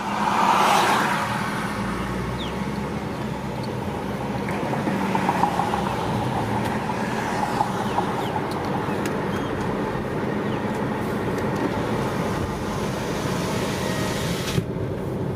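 Steady road and tyre noise of a moving car heard from inside the cabin, with a louder rush that swells and fades in the first second or so.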